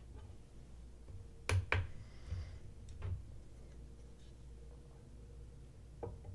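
A few light clicks and taps from handling a knife on a BESS edge-sharpness tester: two close together about a second and a half in, a softer one near three seconds and a faint one near the end, over a faint steady hum.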